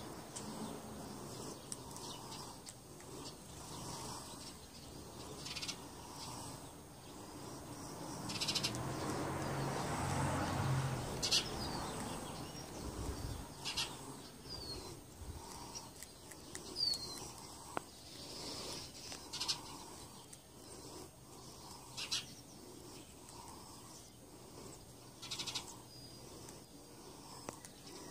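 Birds chirping now and then: short, high chirps, a few with a quick downward slide, over a faint steady background. About a third of the way in, a low hum swells up and fades away.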